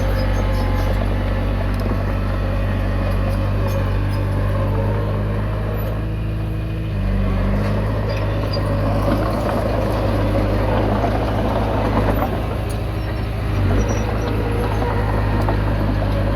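Komatsu D20P bulldozer's diesel engine running steadily, its pitch shifting about seven seconds in, with faint clicks and knocks over it.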